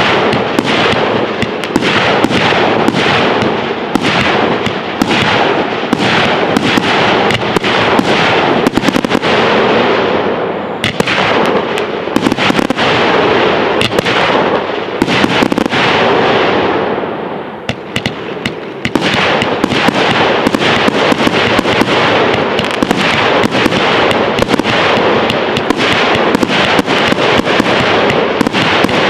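Fireworks display going off in a dense, continuous barrage of bangs and crackling, easing briefly about two-thirds of the way through before building up again.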